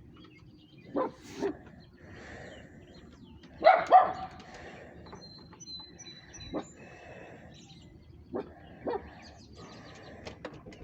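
Dog barking in short pairs, about seven barks, the loudest two about four seconds in.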